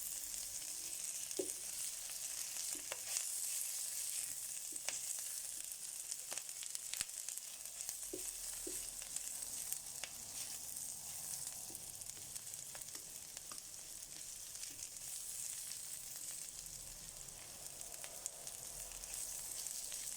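Chopped onion and spring onions sizzling as they fry in a pan: a steady hiss with scattered small clicks and pops.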